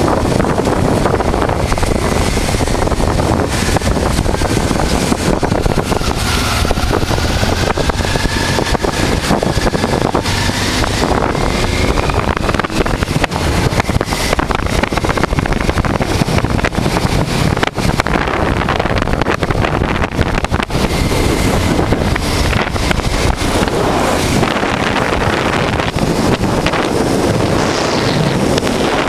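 Steady wind rush on the microphone of a motorcycle under way, with the engine of a 1988 Honda Transalp V-twin running underneath.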